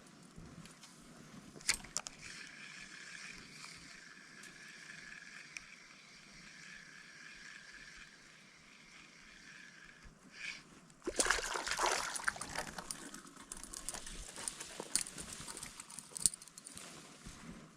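Water sloshing and splashing in a shallow creek, starting about eleven seconds in and going on in irregular strokes. Before that there is only a faint, steady high hum.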